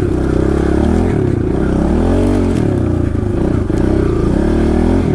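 Kawasaki KLX110L pit bike's small single-cylinder four-stroke engine running under a rider on a wooded trail, the revs rising and falling several times as the throttle is worked.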